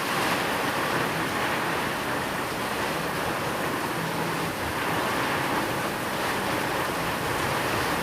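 Steady rain falling, an even hiss of water that does not change in level.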